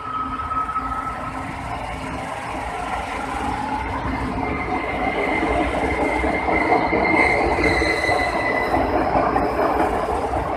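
Four-car LRT-2 electric multiple unit running into the station along the platform, its wheel and running noise growing louder as it comes alongside. Thin high wheel squeals ring over it, one near the start and a stronger one from about four to nine seconds in.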